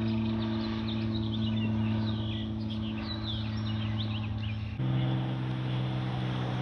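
Airplane engine drone, a steady low hum with birds chirping over it. About three-quarters of the way through it cuts abruptly to a slightly higher-pitched drone and the birds drop out.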